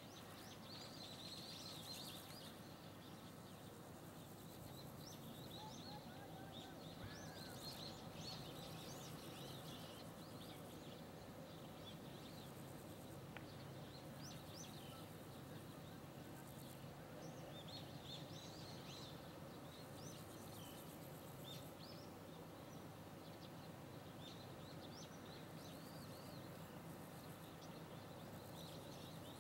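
Faint, frequent chirping of small birds, many short high calls, over a low steady background hum.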